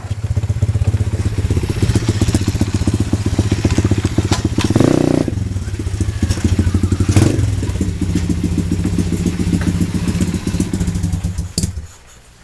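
Pit bike's small single-cylinder engine running steadily, revving up briefly about five seconds in and again around seven seconds, then cutting off about a second before the end.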